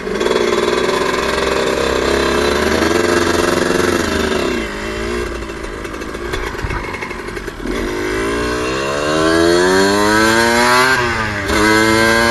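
Suzuki RM125 two-stroke single-cylinder engine pulling at high revs, easing off about four and a half seconds in. It then revs up in a long rising climb, drops sharply near the end at an upshift, and climbs again.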